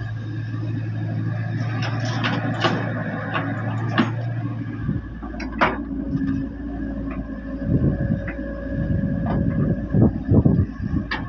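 Doosan DX55 excavator's diesel engine running, its note changing about five seconds in, with sharp metallic knocks and a run of clanks near the end as the machine works.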